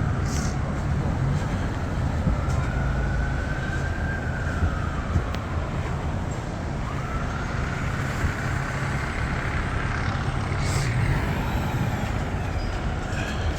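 Heavy vehicle engine running with a steady low rumble, and a faint whining tone that slowly rises and falls several times over it.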